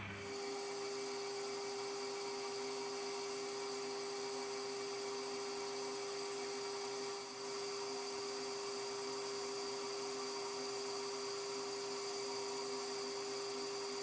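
Metal lathe running at a steady speed with a constant whine, taking a cut to bring a casting's bore to size. The level dips briefly about seven seconds in.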